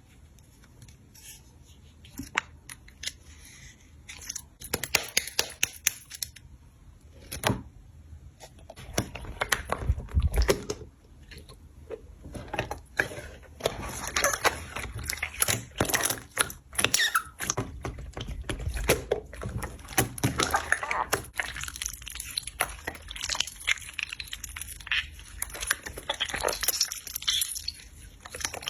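Slime being worked by hand, making a dense run of sticky crackles, pops and squishes that gets busier after the first few seconds.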